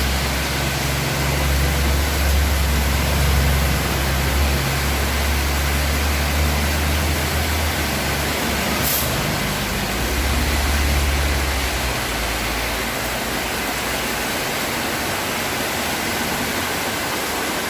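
Steady rain hissing, with a vehicle engine's low rumble running underneath that dies away about twelve seconds in.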